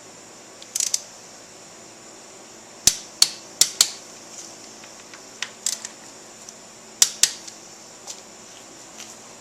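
Sharp metal-and-plastic clicks and clacks of tools and parts being handled on a motorcycle's front end, about nine in all, several in quick pairs.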